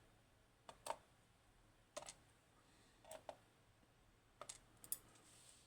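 Small, sharp metal clicks and taps, about seven in scattered ones and pairs: pins and parts of a Codkey Locksys pin-tumbler lock being handled as it is taken apart.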